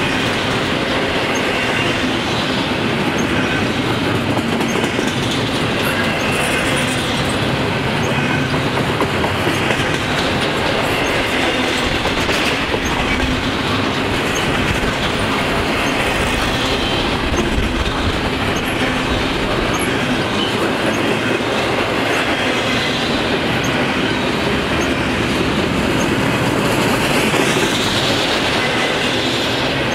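Double-stack intermodal container train rolling past close by: a steady rumble and clatter of freight-car wheels on the rails.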